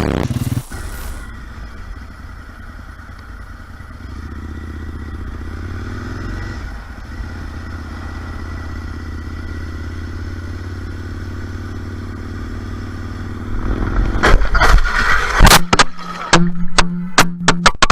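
Motorcycle engine running steadily, then, about fourteen seconds in, a series of loud knocks, clatter and scraping.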